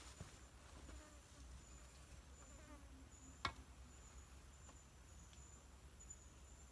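Faint forest insect trilling in one high, steady tone that breaks off and resumes, with a single sharp click about three and a half seconds in.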